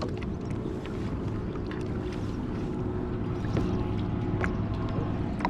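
A boat's motor runs steadily with a low, even hum, over wind and water noise, with a few faint clicks.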